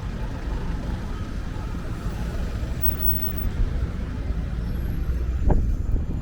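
Wind buffeting the microphone: a loud, uneven low rumble, with a brief knock about five and a half seconds in.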